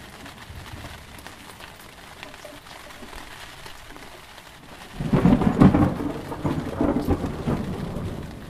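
Steady rain, then about five seconds in a loud thunderclap breaks in and rumbles for about three seconds, fading away.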